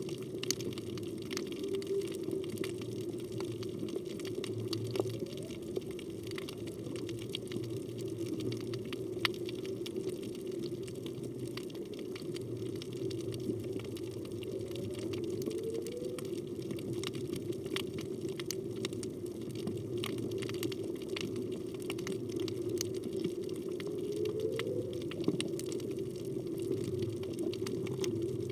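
Underwater reef noise with a constant crackle of sharp clicks and a steady low rush of moving water. Three faint rising tones come about ten seconds apart, which fit the whale song that the uploader takes for a humpback whale.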